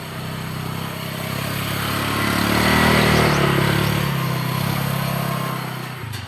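A motor vehicle driving past: its engine grows louder, peaks about three seconds in, then fades away with a slight drop in pitch.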